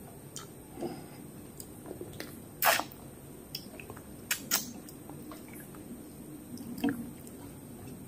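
Close-up mouth sounds of eating fish by hand: chewing, sucking and biting at a piece of fish, with scattered sharp smacks and clicks, the loudest about two and a half seconds in.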